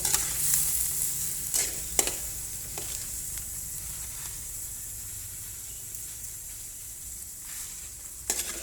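Coconut weevil larvae frying in hot oil in a pan: a steady sizzle, broken by a few sharp clicks about one and a half to three seconds in and again near the end.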